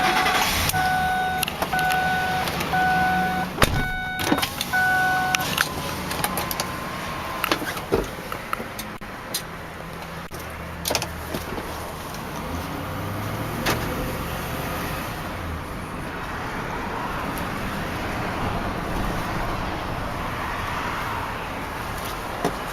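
Ford Expedition's warning chime beeping steadily for about five seconds, with a door shutting about four seconds in. After that the SUV's engine runs and it is driven slowly, with scattered clicks and knocks.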